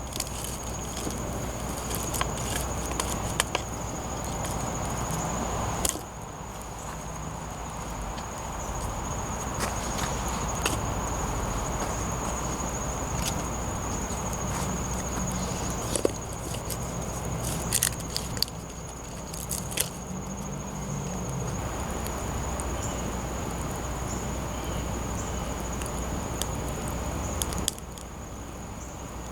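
Wood campfire crackling, with scattered sharp snaps and knocks over a steady rushing noise, and a steady high insect drone throughout.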